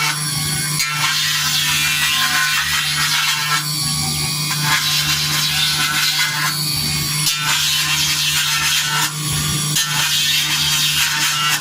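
CNC engraving machine cutting a design into a silver plate: a steady spindle hum under a bright, scratchy scraping from the cutter, which changes every second or two as the tool moves across the metal.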